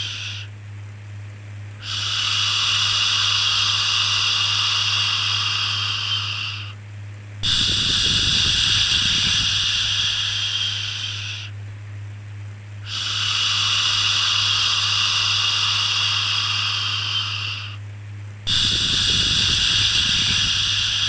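A person shushing for a baby: long, even "shhh" sounds of about five seconds each, separated by short pauses of about a second and repeating steadily, over a constant low hum.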